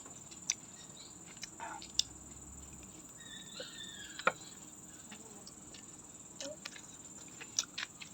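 Raw vegetables being crunched and chewed close to the microphone, with a handful of sharp crunches at uneven intervals. Under them runs a steady high-pitched trill of crickets.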